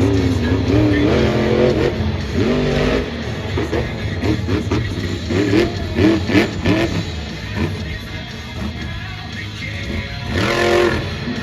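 Monster truck's supercharged alcohol-fuelled engine revving hard in repeated rising and falling surges during a freestyle run, with a strong rev near the end, over arena music on the PA.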